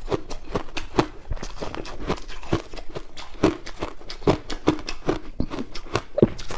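Close-up chewing of crushed ice: a steady run of crisp crunches, a little over two a second, as the ice is bitten and ground between the teeth.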